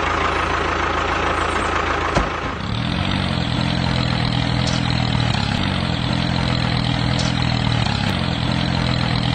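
Tractor-type engine running steadily at idle. About two and a half seconds in, the sound changes and settles into a steadier low hum.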